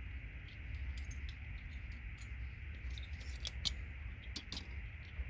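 Irregular small clicks and light clinks of plastic and gold-plated metal pins as the plastic housings are pulled off an RJ45 patch panel's pins, over a steady low hum.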